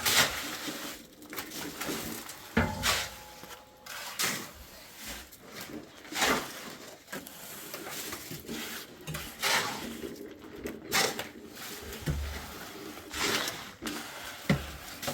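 Irregular scraping strokes of hand tools working cement mortar, roughly one every second or two.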